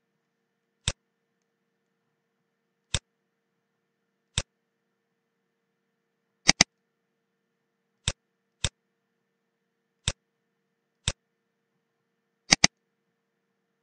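Computer mouse clicking as a markup line is drawn point by point on the drawing: about eight single clicks spaced a second or two apart, with a quick double click about halfway through and another near the end.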